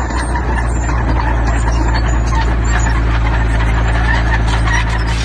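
Diesel engine of heavy earthmoving machinery running steadily at working load, a low drone, with continuous clattering and scraping over it.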